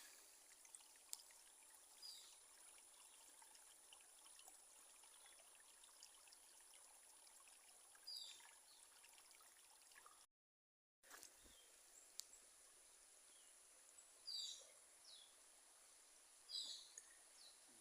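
Faint rural ambience: a steady high hiss with scattered short, falling bird chirps, several of them close together near the end. The sound cuts out completely for about a second near the middle.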